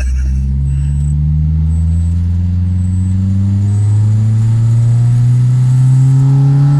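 Freshly rebuilt Toyota 4A-GE four-cylinder engine pulling under acceleration, its note rising steadily in pitch and growing louder.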